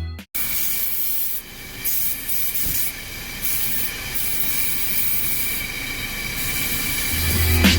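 Self-serve car wash vacuum running, air rushing through its hose nozzle with a steady high whine, the rush rising and falling in level.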